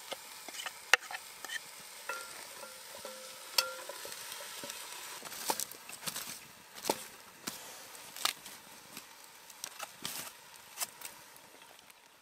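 Chopped vegetables sizzling as they fry in a camp pot over a fire, with a spoon stirring them and knocking and scraping against the pot several times.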